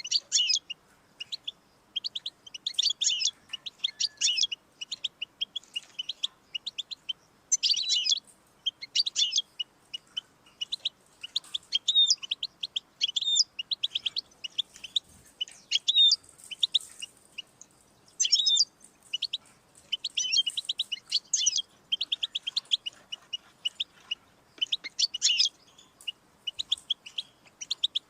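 European goldfinch singing: rapid twittering phrases of fast trills and high notes, coming in bursts about a second long with short pauses between them.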